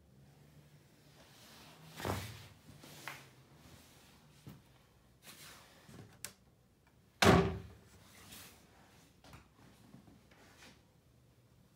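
A door or cupboard being handled: scattered knocks and clicks, with a loud bang about seven seconds in as it shuts.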